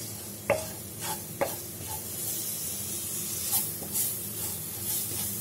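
Onions and ground spice powder frying in oil in a non-stick pan with a steady sizzle, stirred with a wooden spatula that scrapes and knocks against the pan a few times. The masala is being sautéed until it loses its raw smell.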